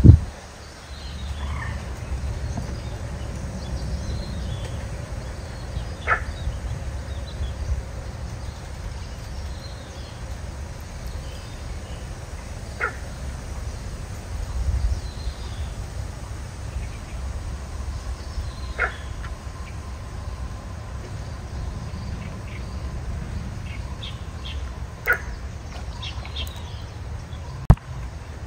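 A bird giving a short call about every six seconds, with faint chirping of other birds and a steady low rumble of wind underneath. A single sharp click near the end.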